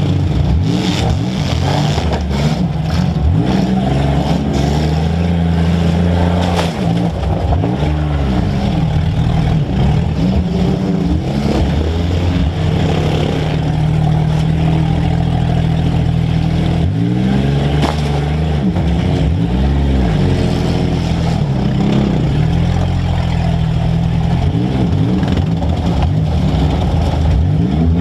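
Demolition derby car's engine, heard up close from the hood, revving up and down again and again as the car manoeuvres, with a couple of sharp knocks, one about six seconds in and one near eighteen seconds.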